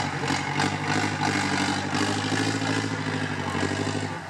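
IFA W50 truck's diesel engine running hard at steady high revs, then easing off just before the end.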